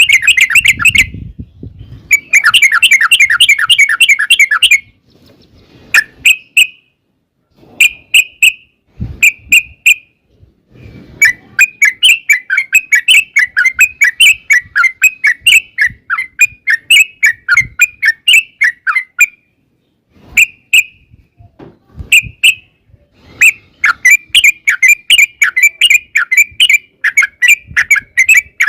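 Yellow-vented bulbul (trucukan) singing loudly in long rapid chattering runs of short notes, broken by pauses and a few short two-note calls.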